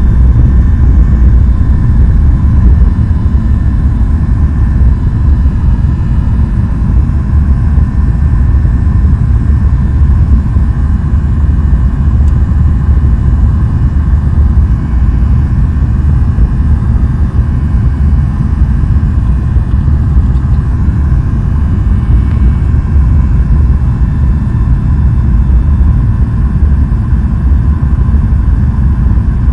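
Jet airliner engines heard as a loud, steady low rumble with a faint high whine above it.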